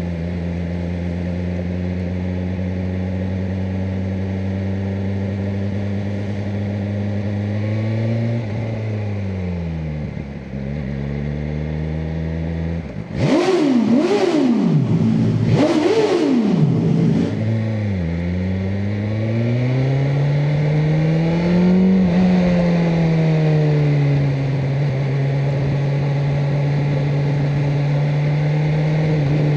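BMW M1000R Competition's inline-four engine cruising at steady revs, easing off for a few seconds, then blipped through three quick, sharp revs one after another about halfway through. It then settles back to pulling steadily, with a slow rise and fall in revs.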